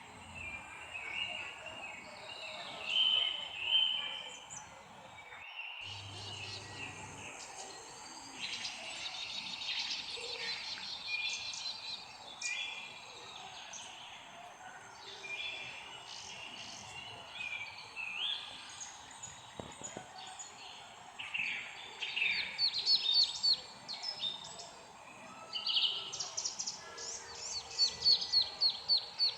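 Several birds chirping and singing in overlapping short calls and whistled phrases, over a faint steady background hiss. The sound drops out briefly about five seconds in, and near the end one bird gives a fast run of repeated notes.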